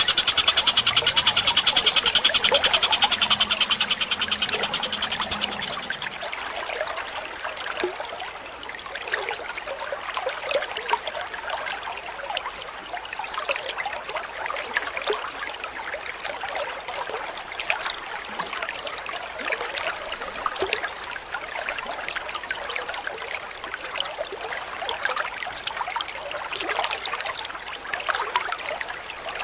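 Bird chatter over trickling water: a loud, rapid trilling chatter for about the first six seconds, then running water with scattered short chirps.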